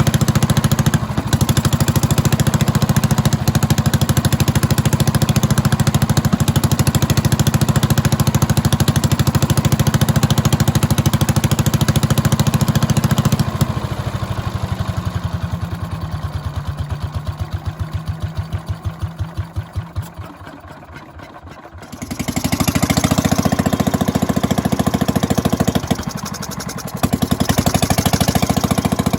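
1932 Fairbanks-Morse Z Style D 'salt block' single-cylinder, throttle-governed engine running steadily at speed. About 13 seconds in it slows, its strokes spreading out until it nearly dies away, and about 22 seconds in it is running at speed again.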